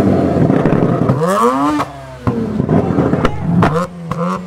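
Modified Mazda RX-8's rotary engine revving as it pulls away, the pitch climbing once about a second in. Sharp exhaust pops and bangs follow in the second half as the exhausts spit flames.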